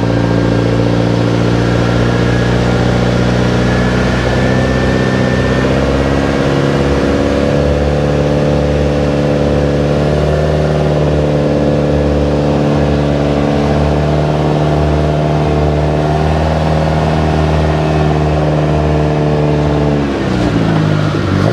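Engine of a motorized Filipino canoe running under way, a steady pitched drone that rises a few seconds in and drops near the end as the throttle changes.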